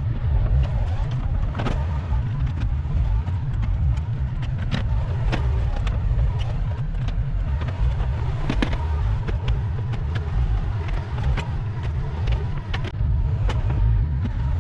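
Bobcat 753 skid-steer loader running under load while levelling dirt: a steady engine rumble with frequent short clanks and knocks throughout.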